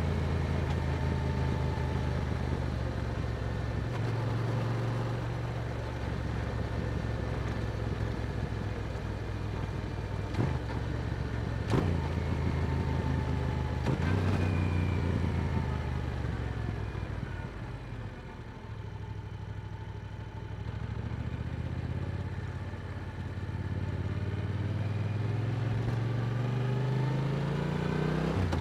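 Yamaha R7 motorcycle's parallel-twin engine running through an Akrapovic exhaust while riding. It holds steady revs with two sharp knocks partway through, then the revs fall away to a quieter stretch as it slows, and they climb again near the end as it accelerates.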